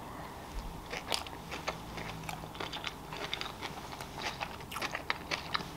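A person biting into and chewing a roll of raw salmon wrapped in rice paper: a run of short, irregular mouth clicks, several a second.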